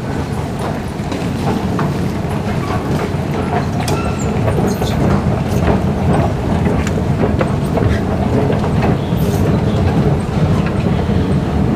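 Singapore MRT train running on its rails: a steady low rumble with wheel clicks, growing slightly louder.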